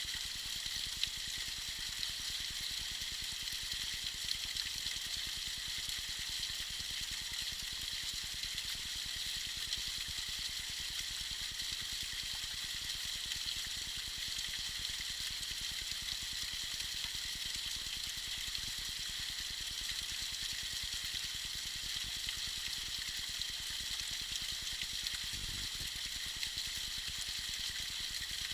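Tiny icy waterfall trickling and splashing steadily, a bright, even rush of falling water.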